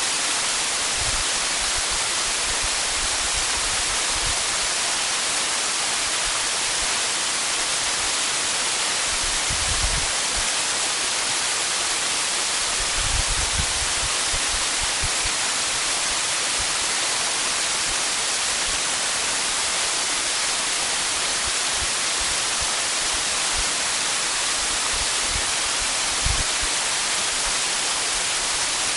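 Waterfall, a steady rush of falling water, with a few short low thumps about ten, thirteen and twenty-six seconds in.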